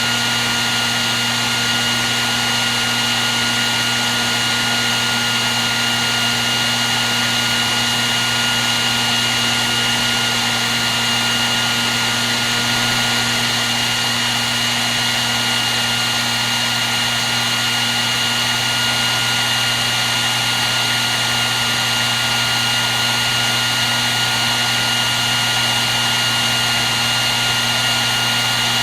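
Hair dryer running steadily: an even rush of blown air with a constant high whine and a low hum from its fan motor.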